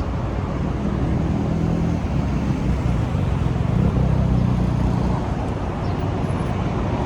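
A car engine running close by, louder for a few seconds around the middle, over a steady rumble of road traffic.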